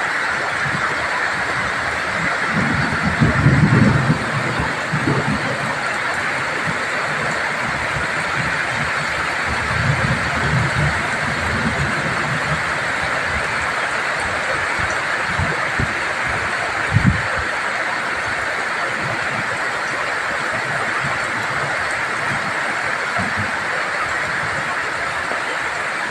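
Heavy tropical rain pouring down steadily, with strong wind gusting onto the microphone as low rumbling buffets about three seconds in, around ten seconds and again near seventeen seconds.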